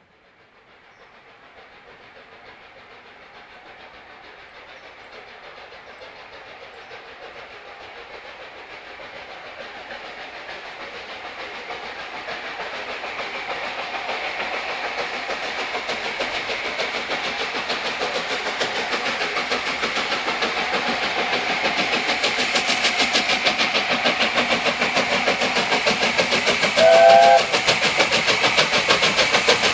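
Steam locomotive approaching and working hard, its rapid exhaust beats growing steadily louder. A short whistle blast of several tones at once sounds near the end.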